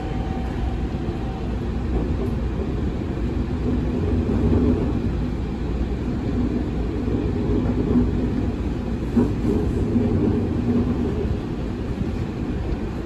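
Inside the passenger car of a JR Central Series 313-3000 electric multiple unit, the train runs away from a station with a steady low rumble of wheels and running gear. A faint whine fades out in the first second or two.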